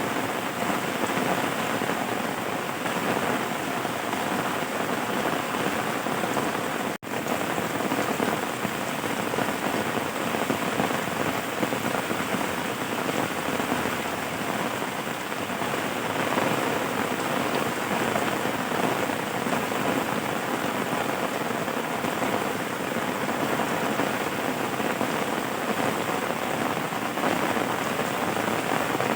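Steady rain falling and pattering on surfaces, with a momentary break about seven seconds in.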